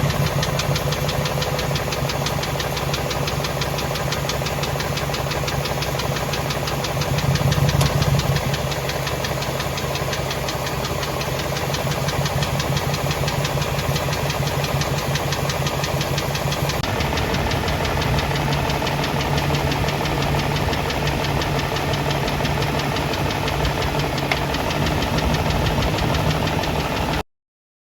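BMW M62TU V8 engine running with a fast, even knocking rattle. It briefly gets louder about a quarter of the way in and cuts off suddenly near the end. The owner considers this engine ruined: overheating from a leaking water pump, scored cylinders and failing timing chain guides.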